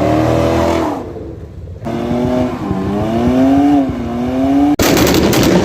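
A car engine revving, its pitch climbing and falling over several blips with a short easing-off about a second in. Near the end it cuts off abruptly and a loud, noisy sound takes over.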